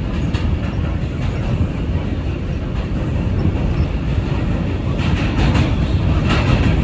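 R142 subway train running through the tunnel, heard from inside the car: a steady low rumble. Over the last couple of seconds there are sharp clicks as the wheels pass over rail joints.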